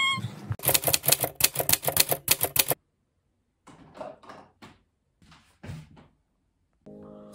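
A fast run of sharp clicks for about two seconds, then silence and a few softer, scattered clicks. Piano music comes in near the end.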